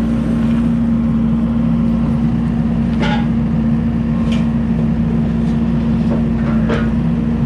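Kubota SVL75-2 skid steer's diesel engine running steadily, with a strong low hum, while working a homemade hydraulic log splitter; a few short sharp knocks or cracks come about three, four and a half and seven seconds in.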